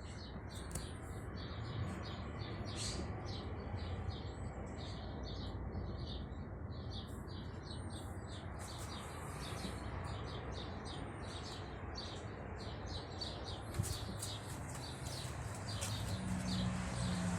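VW EA111 engine running steadily, with many short high chirps over it at an irregular pace.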